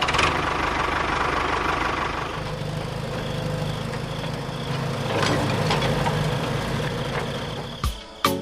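A small engine running steadily, with a couple of sharp clicks near the end.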